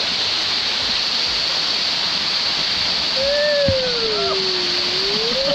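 A waterfall pouring close by, giving a loud, steady rush of falling water. About three seconds in, a long gliding tone dips and then rises over it.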